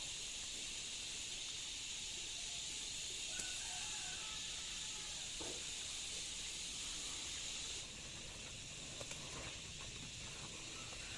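A steady, high-pitched chorus of insects droning outdoors, with a few faint bird chirps over it. The chorus drops a little about eight seconds in.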